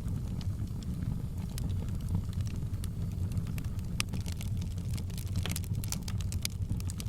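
Wood fire in a fireplace crackling, with irregular sharp pops and snaps over a steady low rumble of flame. The pops come thickest about two-thirds of the way through.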